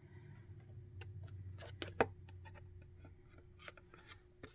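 Small irregular clicks and light rustles from hand-sewing a button onto a paper tag: needle, thread and button handled against the card, with a few sharper clicks about two seconds in.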